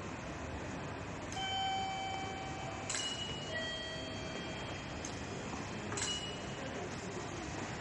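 Railway station ambience: a steady rush of noise with two chime tones ringing out, one about a second and a half in and another about three and a half seconds in, and a few sharp clicks.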